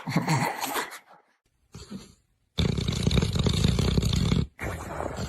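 A dog making a low, rough growl-like sound: one loud stretch of about two seconds starting near the middle, then after a brief break a quieter stretch near the end.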